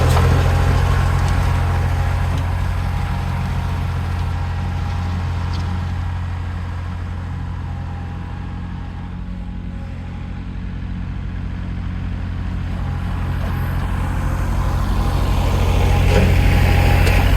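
Heavy equipment diesel engine running steadily. It gets quieter through the middle and louder again toward the end.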